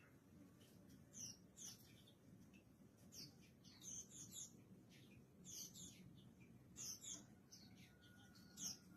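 Mountain white-eye (pleci) giving faint, short high chirps that slide downward, in quick clusters of two to four, a new cluster every second or two.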